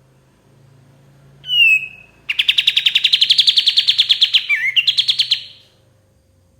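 Kapas tembak songbird singing: a short falling whistle, then a fast, loud trill of about ten notes a second lasting some three seconds, with one twisting note near the end.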